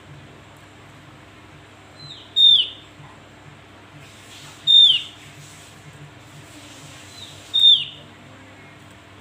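Javan grey-throated white-eye (opior Jawa) calling: three sharp, loud notes that slur downward, about two to three seconds apart, each with a faint softer note just before it.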